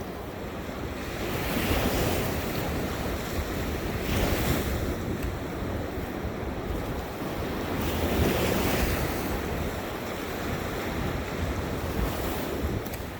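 Ocean surf breaking on a beach, the wash swelling with each wave about two, four and eight seconds in, with wind rumbling on the microphone.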